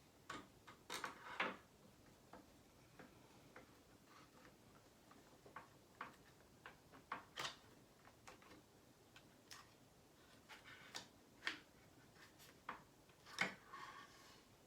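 Quiet, irregular small clicks and taps of hand tools and small parts being handled while mounting a model helicopter engine, with a few louder clusters of clicks about a second in and near the end.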